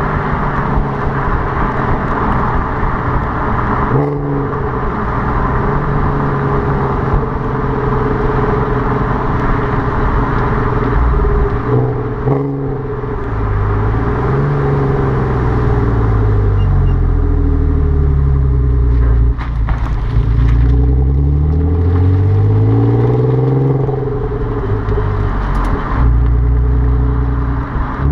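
Audi TT 3.2's VR6 engine running through a Milltek exhaust with no resonator. The engine note holds steady at first, then rises and falls several times in the second half as the revs climb and drop.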